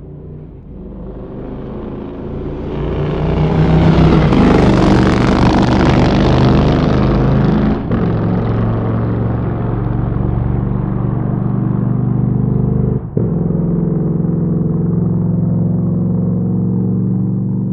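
Motorcycle engine getting louder over the first few seconds, loudest around four to seven seconds in, then running at a steady pitch, with a brief break about thirteen seconds in, slowly fading.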